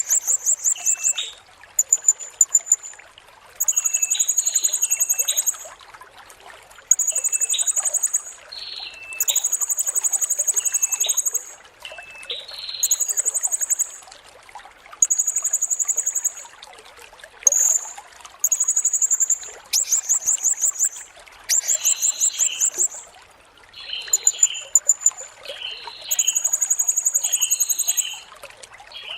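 Blue-crowned hanging parrot (serindit) singing: repeated shrill, rapidly pulsed trills, each one to two seconds long, with shorter, lower chirps between them.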